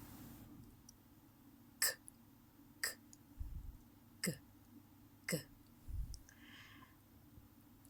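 A woman sounding isolated English consonants: two short, crisp unvoiced 'k' bursts about a second apart, then two 'g' sounds, each with a brief falling voice, about a second apart. Two dull low thumps fall between them.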